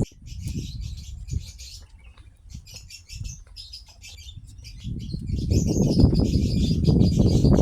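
Small birds chirping rapidly and continuously, with a thin high steady note in the second half. A low rumbling noise swells about five seconds in and becomes the loudest sound.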